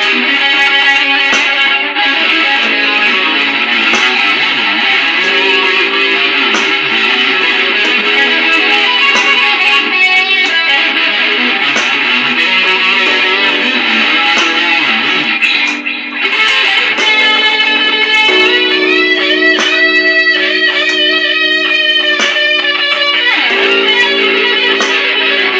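Electric guitar playing a blues in three-four time through a Digitech multi-effects processor, continuous single notes and chords, with notes gliding in pitch for a few seconds about three-quarters of the way through.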